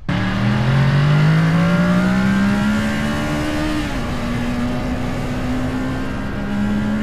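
Motorcycle engine accelerating under way, its pitch rising steadily, then dropping about four seconds in as it shifts up a gear, holding and starting to rise again near the end, with wind noise.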